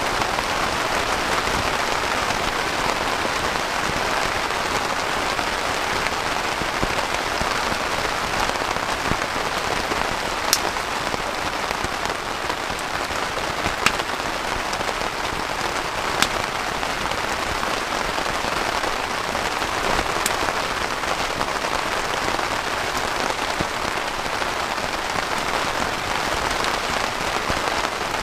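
Heavy rain falling steadily. Three short sharp clicks stand out about halfway through.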